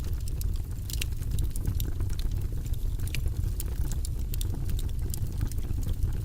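Wood fire crackling in a fireplace: irregular sharp snaps and pops, several a second, over a steady low rumble of the burning fire.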